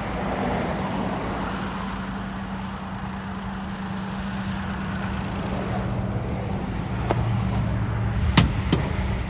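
Daihatsu Hijet kei truck's small 660 cc three-cylinder engine idling with a steady low hum, with three sharp clicks or knocks near the end.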